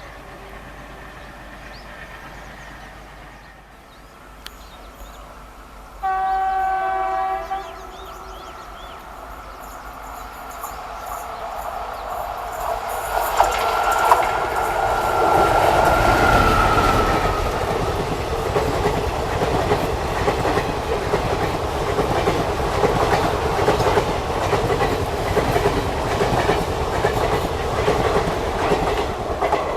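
Indian Railways locomotive-hauled express train: one horn blast of about a second and a half, about 6 s in. The train then draws near and passes close by, with its wheels clattering steadily over the rail joints.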